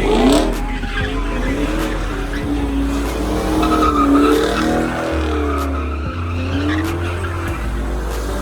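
A car's engine revving up and down with its tyres squealing as it slides, over music with a heavy, stepping bass line.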